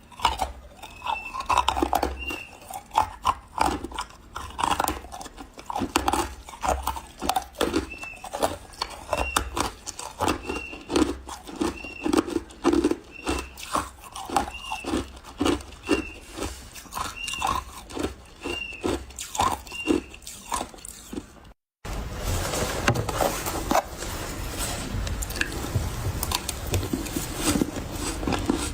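Close-up chewing of refrozen powdery ice, a dense run of quick crunches from each bite. After a sudden break about three-quarters of the way through, it gives way to a continuous rasping, scraping sound.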